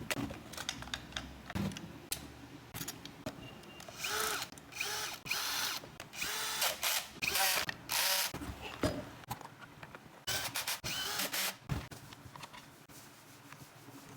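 A power drill run in short bursts, its whine rising and falling in pitch, with clicks and knocks of parts being handled between the bursts.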